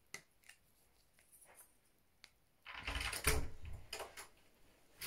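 Small handling noises: a few light clicks and taps, with a louder rustle and bump about three seconds in.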